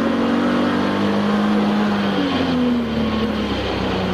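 Touring race car's engine heard from inside the cockpit, running hard over road and wind noise; about two seconds in the engine note shifts and then falls steadily as the revs drop.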